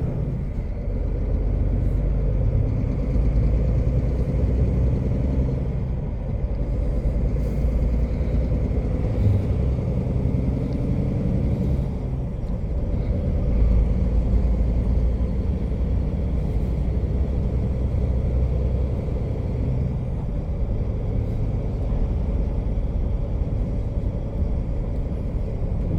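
Heavy truck's diesel engine running under way, a steady low rumble heard from inside the cab, with the engine note stepping up and down a few times.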